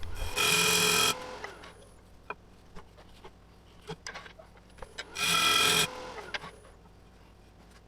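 A cutting tool buzzing against the spinning workpiece on a wood lathe: two short steady-pitched buzzes, each under a second, about five seconds apart, with faint light clicks between them.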